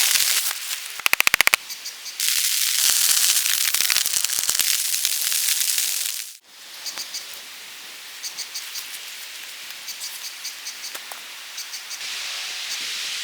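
Rain falling as a steady hiss, heavy in the first half, with a quick rattle of sharp clicks about a second in. Around the middle the sound cuts off abruptly and returns as lighter rain, with faint short high-pitched pulses repeating through it.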